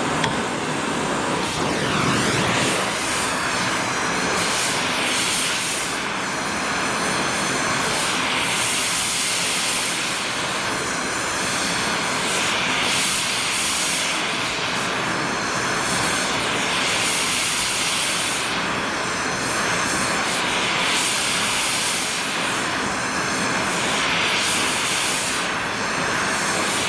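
Gas torch flame hissing steadily as steel is heated, its high hiss swelling and easing every couple of seconds.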